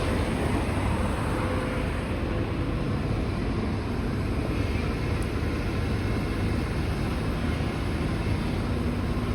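Diesel engine of a demolition excavator running steadily, a low continuous rumble with no distinct crunches or impacts.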